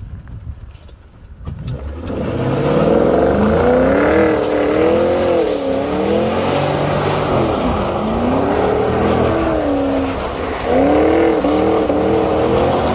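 Porsche Cayenne S V8 with a muffler bypass, revving hard under load. It comes in loud about two seconds in, its pitch climbing and falling again and again, sagging briefly around eight seconds and surging again near eleven.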